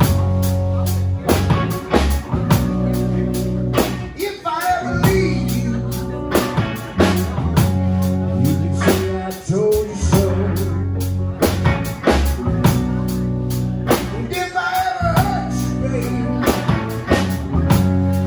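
Live band of guitar, bass guitar and drum kit playing a slow blues instrumental intro. Drums keep a steady beat under held bass notes, and bending guitar lead lines come in twice.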